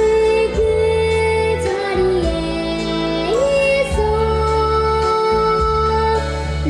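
A child singing a Korean children's song over instrumental accompaniment, holding long, steady notes that change pitch a few times.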